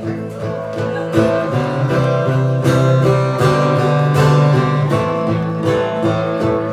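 Acoustic guitar playing the instrumental intro of a country song, a run of picked and strummed notes before the vocal comes in.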